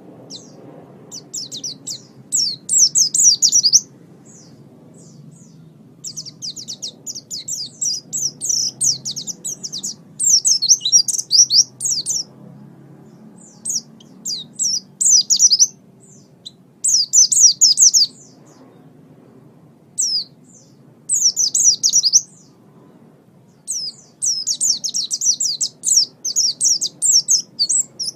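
Small songbird singing rapid, high-pitched chattering chirps in phrases of one to three seconds with short pauses between them, over a faint low hum.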